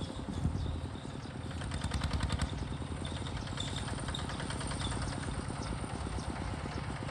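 Diesel engine of a Hinota HG Gold 155 DI hand tractor running steadily with an even, rapid firing beat, a little louder about two seconds in.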